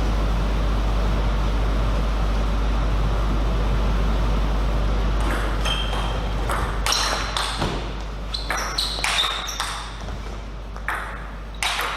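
A steady hum, then from about halfway through a rally of sharp clicks: a celluloid table tennis ball hit back and forth by rackets and bouncing on the table, some hits ringing briefly.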